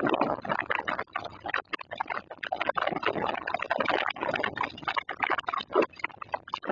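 Summer storm wind buffeting the microphone in uneven gusts, a rough rushing noise that surges and drops out again and again.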